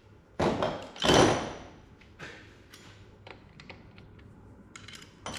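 Metal hand tools clattering and clinking against the bolts of the excavator's hydraulic tank cover as a socket is tried on them: two loud clanks about a second apart, the second with a short ring, then a run of light clicks and taps.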